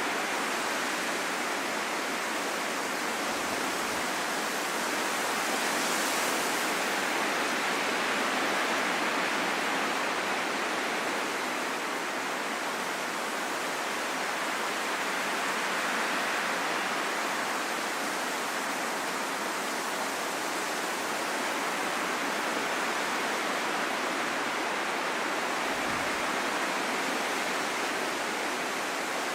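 Steady rushing wind, a continuous hiss without any howling tone, gently swelling and easing.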